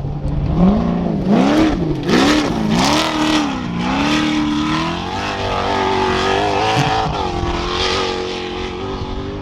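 Trophy truck engine revving up and down several times in quick succession, about once every 0.7 seconds, then holding a steadier, higher pitch as it pulls away and slowly fades.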